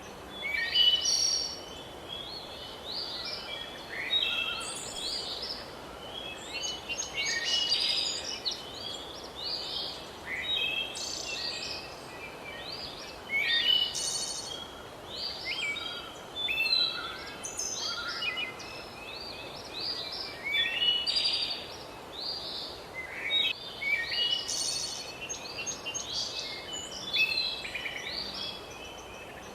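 Several birds singing at once, a dense run of overlapping high chirps and trills, over a steady background hiss.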